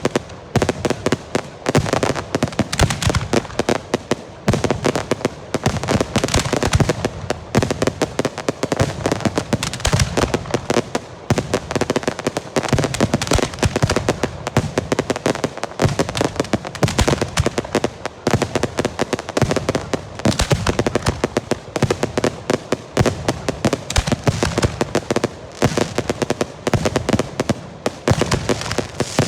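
Girândolas, clusters of Portuguese firework rockets, going off in a dense continuous barrage: many sharp bangs per second overlapping with no pause.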